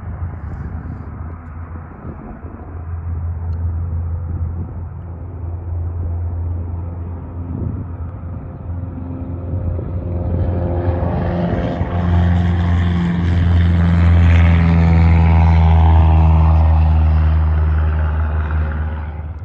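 An aircraft passing close: a steady low engine rumble grows louder from about halfway, peaks near the end with its tone sliding down as it goes by, then cuts off suddenly.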